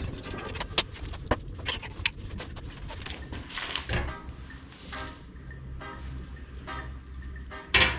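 Irregular sharp clicks and knocks over a low steady hum.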